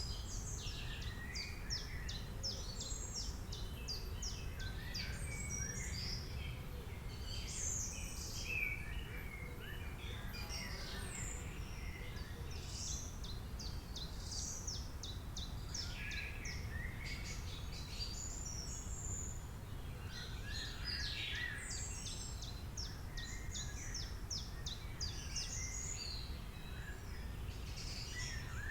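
Wild songbirds singing and chirping, with fast high trills that come in several phrases, over a steady low background rumble.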